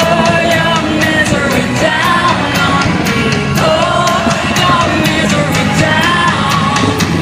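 Rock song with a sung lead vocal over a full band, with a fast steady drum and cymbal beat and distorted guitars.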